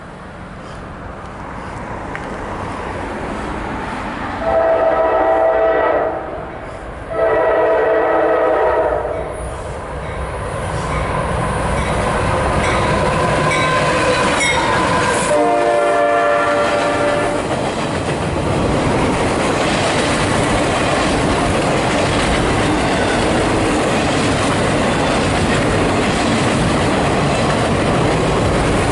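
CSX freight train locomotive sounding its horn, two long blasts and then a shorter one, as the empty double-stack train approaches. The train then passes with a steady rumble and the clickety-clack of its wheels on the rail joints.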